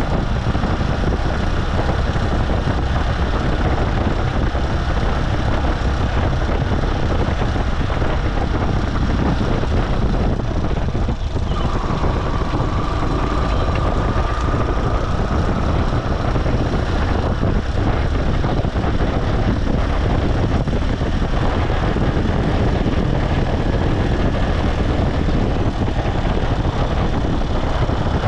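Motorcycle engine running under way, with steady road noise. A faint, steady high whine comes in for a few seconds around twelve seconds in.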